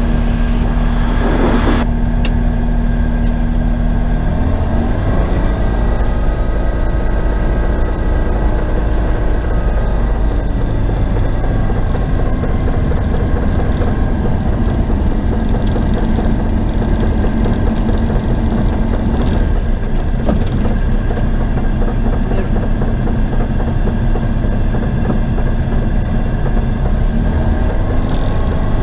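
Single-engine light aircraft's Rotax 912 engine running steadily at low power while taxiing, its note shifting in pitch about five seconds in.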